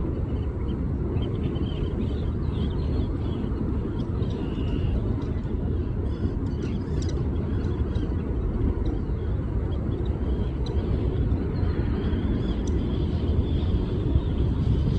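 Steady low outdoor rumble, with faint high chirps and a few light ticks over it.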